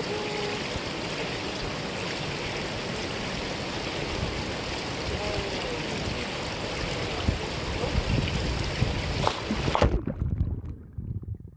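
Mountain valley stream rushing steadily over rocks. Near the end the rushing cuts off abruptly, leaving a few low thumps.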